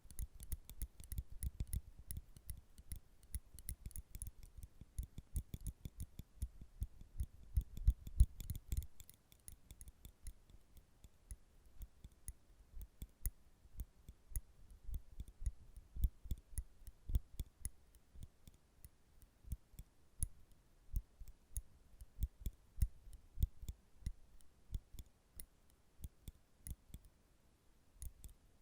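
Metal nail clippers clicking over and over, close up. The clicks come fast and dense for the first nine seconds or so, then slow to scattered single clicks.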